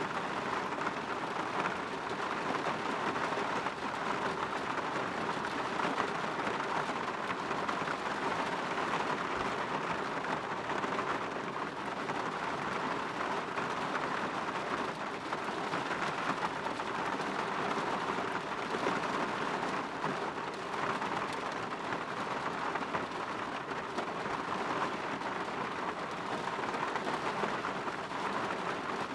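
Steady rain falling on a window pane, an even patter with no breaks or changes.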